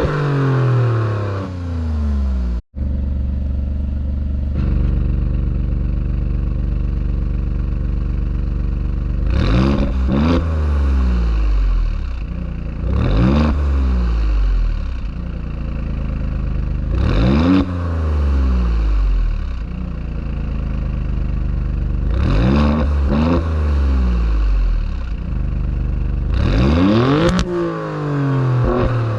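A 2018 Alfa Romeo Stelvio Quadrifoglio's twin-turbo V6 idles and is revved about five times. Each rev climbs quickly and then falls back slowly to idle. The sound cuts out for a moment near the start.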